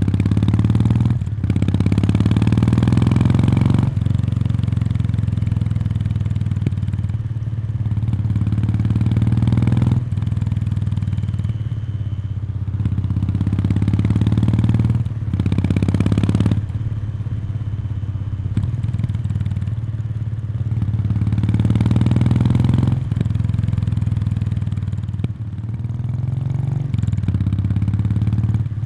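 Kawasaki Meguro K3's stock exhaust, its 773 cc air-cooled parallel twin heard close to the muffler outlet. The engine rises in revs and then drops off sharply, over and over, with steadier running between the pulls.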